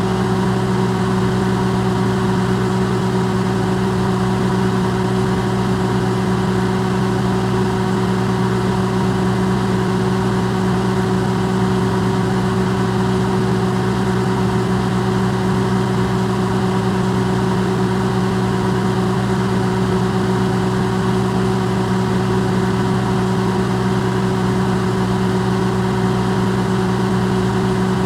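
Electrolux microwave oven running, recorded close and amplified: a steady, unchanging hum with several held low tones over an even whirring noise.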